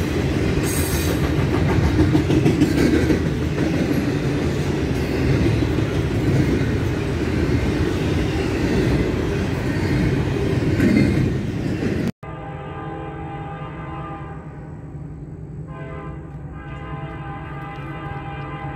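A Norfolk Southern double-stack container train running past, loud steady wheel-and-rail noise. After a cut about twelve seconds in, an approaching diesel locomotive's horn holds one steady chord, more distant and quieter, and keeps sounding.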